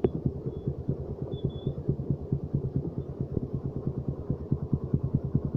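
Motorcycle engine running steadily at low revs, an even pulsing beat of about eight strokes a second.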